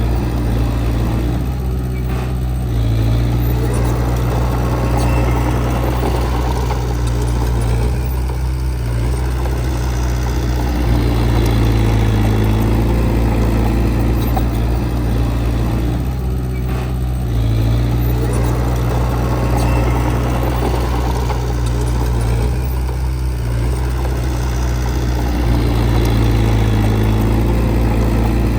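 Diesel engine of heavy earthmoving equipment running steadily, its note shifting and swelling in a slow cycle every several seconds as the load changes.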